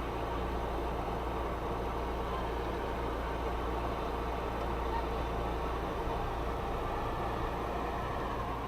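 Steady engine and road noise of a car heard from a dashboard camera, an even hum with no distinct knocks or impacts.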